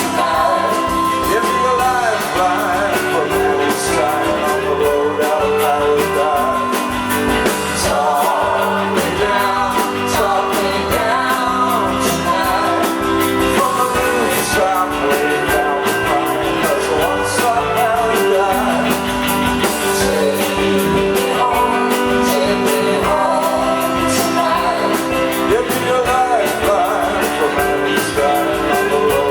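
A rock band playing live: electric guitars and drums with a singing voice, loud and continuous.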